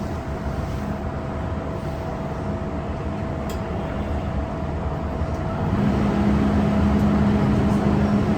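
MTR M-Train electric metro train running, a steady rumble with a thin whine. About six seconds in, the sound grows louder and a strong low hum sets in.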